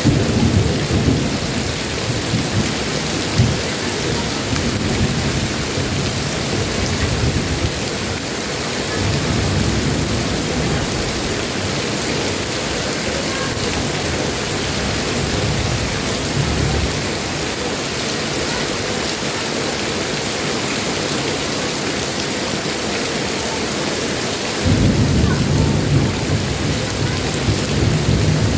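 Heavy rain falling steadily, with rolls of thunder rumbling several times, the loudest starting near the end.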